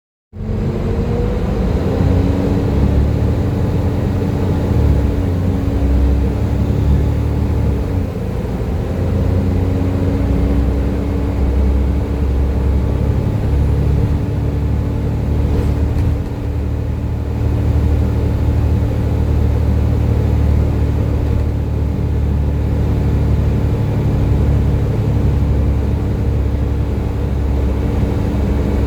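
Volvo B7TL double-decker bus running under way: a heavy low diesel rumble that swells and eases as it pulls, with a steady whine over it, the 'hoover' sound bus enthusiasts know these buses for.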